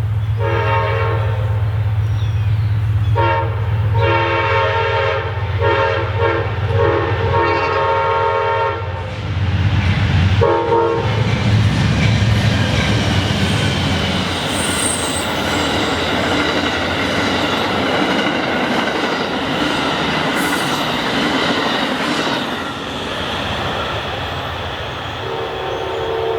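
Amtrak passenger train passing at speed. The locomotive horn sounds a series of blasts over a heavy low rumble for the first eleven seconds or so. Then the cars roll by with a steady rush of wheel noise and clickety-clack, and the horn sounds again near the end.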